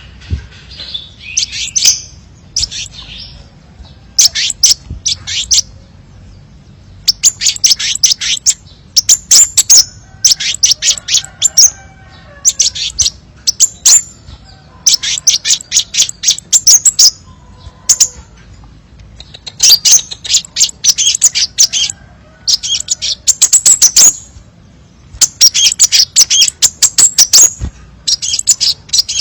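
Crimson sunbird singing: repeated bursts of rapid, sharp, high-pitched chirps, each burst a second or two long with short pauses between, and a faint lower warble in the background about ten seconds in.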